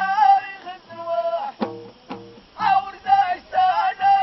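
Ahidous group singing: voices in unison on a wavering, ornamented melody, pausing briefly for two sharp beats about a second and a half in before the singing resumes.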